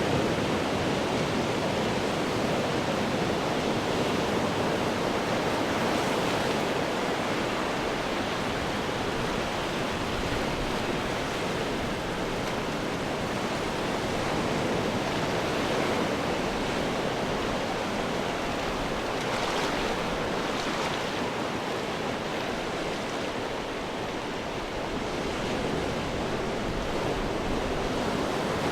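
Ocean waves breaking and washing on rocks: a continuous surf roar that swells and eases, with a couple of brighter crashes a little past the middle.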